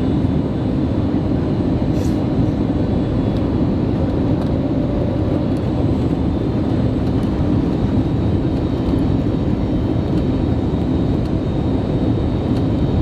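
Steady cabin noise of an Airbus A321neo jet airliner, heard from inside the cabin: an even rumble of engines and airflow with a faint high whine.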